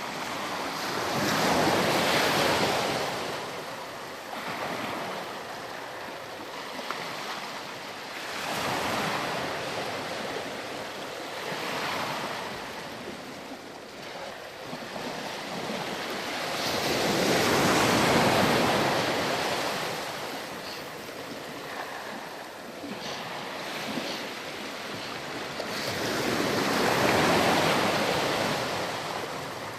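Sea surf rolling onto a sandy beach: waves break and wash up the shore in slow surges that swell and fade every six to nine seconds, the largest near the start, in the middle and near the end.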